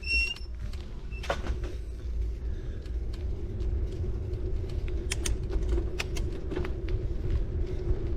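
City bike rolling along a road: a steady low rumble from tyres on the surface with a faint constant hum, and scattered sharp ticks and clicks from the bike. A brief high squeal right at the start, typical of the bike's squeaky disc-brake pads.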